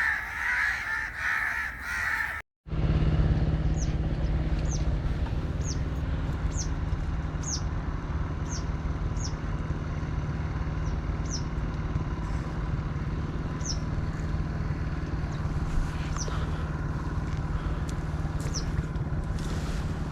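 Crows cawing for about two seconds, then an abrupt cut. After it, a steady low hum carries on, with a small bird's short, high, falling chirps repeating every second or so.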